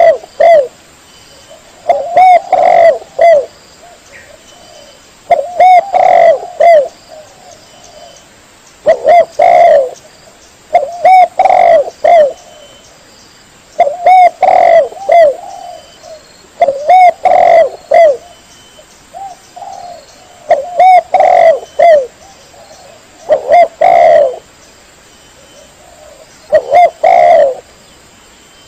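Spotted dove (tekukur) cooing, a recorded master call of the kind played to lure doves when hunting. A loud phrase of several coos repeats about every three seconds.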